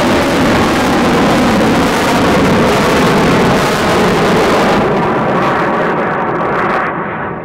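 Loud jet-engine roar of a military jet passing at low level. The sound thins and fades near the end as it moves away.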